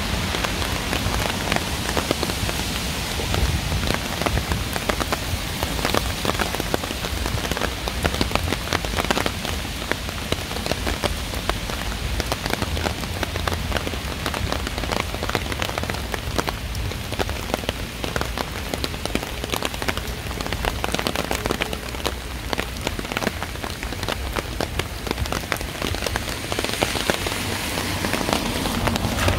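Steady rain falling, with a dense patter of separate drop hits over an even hiss.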